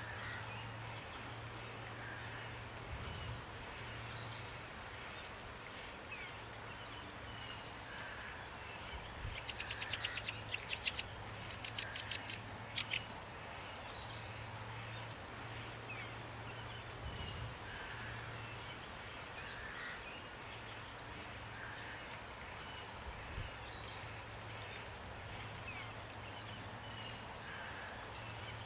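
Songbirds singing over a steady hiss of rain: repeated high, quick falling chirps, with a louder rapid trill about ten seconds in. A low hum comes and goes underneath.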